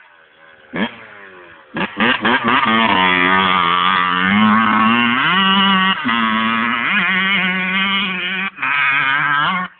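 Two-stroke motocross bike engine revving hard. There is a short blip about a second in, then a long run from about two seconds, its pitch climbing and dropping several times with the throttle, which cuts off abruptly near the end.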